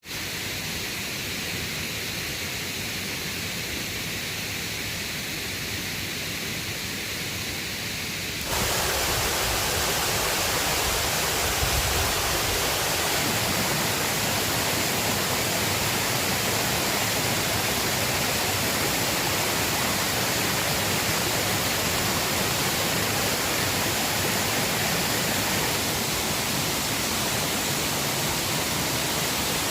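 River water rushing steadily. About eight seconds in it jumps abruptly louder and fuller, then runs on evenly.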